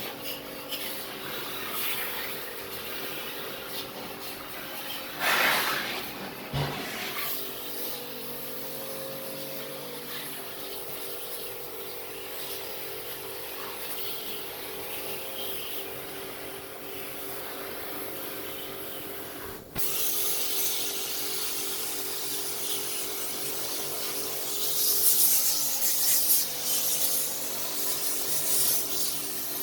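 Air conditioner running with a steady hum, while tools and parts are handled with rubbing and scraping. There are louder bursts of handling noise about five seconds in and near the end.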